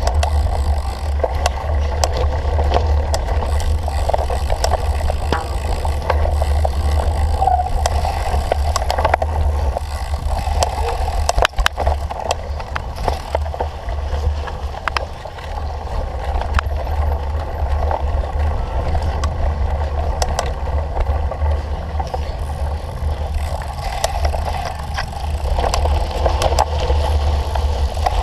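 Cyclocross bicycle ridden over rough ground: steady wind rumble on the microphone, with the bike's rattles and many sharp clicks over the noise of the tyres.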